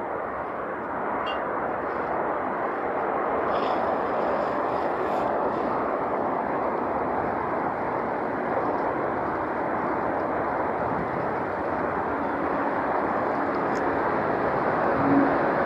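Steady rushing outdoor background noise that grows a little louder over the first few seconds, with a few faint high ticks.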